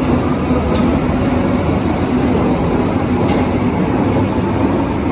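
Berlin U-Bahn large-profile train running on the track: a steady, loud rumble with a low hum that fades out in the first second and a half.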